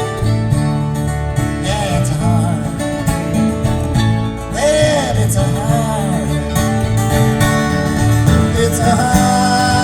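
Live band playing an instrumental passage with guitars, the lead line bending up and down in pitch several times.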